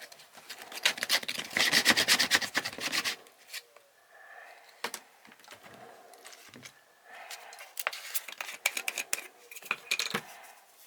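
Handwork on a sneaker's rubber sole, the sole being torn off or the old glue scraped off. A fast crackling run of scraping clicks comes about a second in, then scattered clicks, then a second, sparser run near the end.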